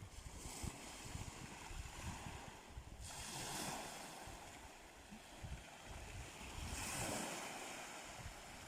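Black Sea waves breaking and washing in, swelling about every three to four seconds, with wind buffeting the microphone.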